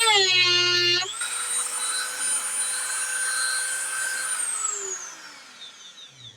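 Dremel rotary tool grinding into the epoxy of a chip, its pitch wavering; about a second in the sound changes to a steady high whine, and from about four seconds in the motor winds down, its pitch falling as it coasts to a stop.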